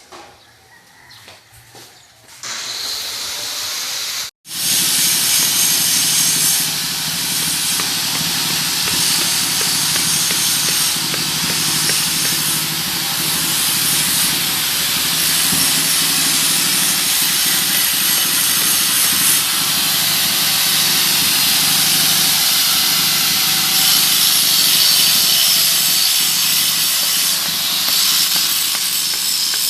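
Racing boat's engine running steadily at speed under a loud rushing hiss of wind and water. It starts after a brief cut-out about four seconds in.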